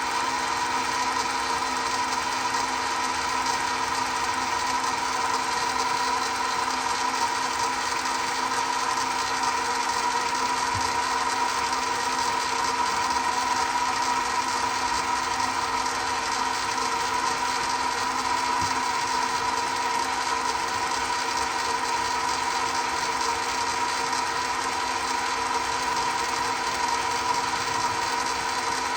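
Chinese mini lathe running steadily, a constant motor and gear whine with no change in speed.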